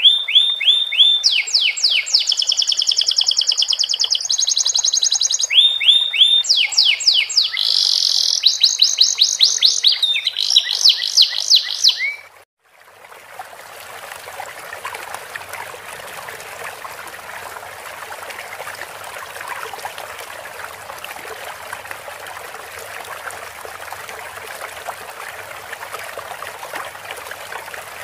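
Domestic canary singing fast trilled phrases, a song learned from the sikatan londo flycatcher, for about twelve seconds. The song then cuts off abruptly and a steady sound of running water takes over.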